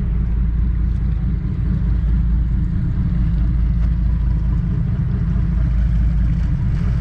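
Engines of a high-speed passenger boat running in a steady low drone.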